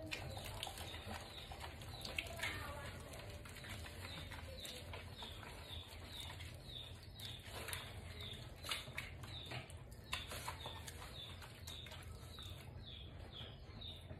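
Small bird chirping, short high falling chirps about two a second, over faint splashing and wet rubbing as a dog is washed by hand.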